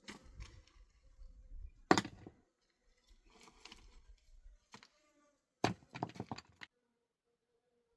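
Handling noises of hard objects: a sharp knock about two seconds in, scraping and rustling, then a quick run of knocks and clatter around six seconds in.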